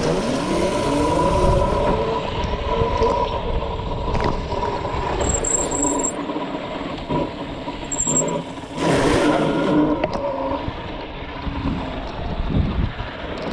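Mini bike engine running while riding off-road, rising in pitch as it revs up over the first couple of seconds, then holding steady. A short rush of noise comes about nine seconds in.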